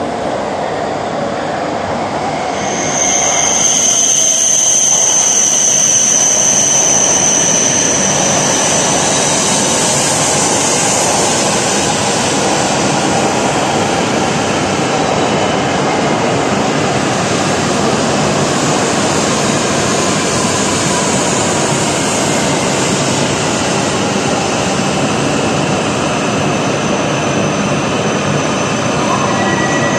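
E7 series shinkansen train pulling into the platform. About three seconds in, its rushing noise rises sharply with a high steady whine. Then comes a steady rush of air and wheels as it rolls slowly along the platform, with a thin squeal starting just before the end.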